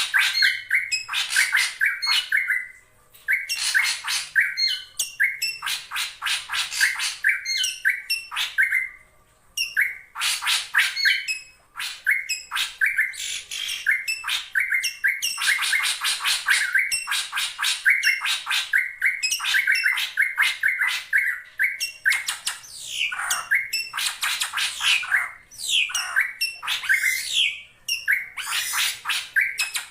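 Drongo calling in rapid bursts of harsh, chattering notes, with short pauses between bursts and some down-slurred whistles in the second half. It is a lure call of the kind used to provoke a rival drongo.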